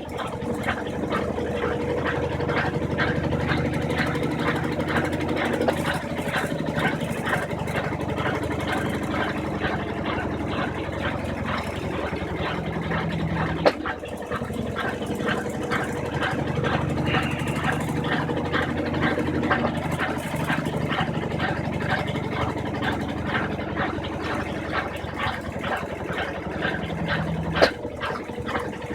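Brastemp 15 kg washing machine in its spin cycle, the drum held at speed: a steady motor hum with a fast even ripple. A sharp click comes about halfway through and again near the end, each briefly breaking the hum.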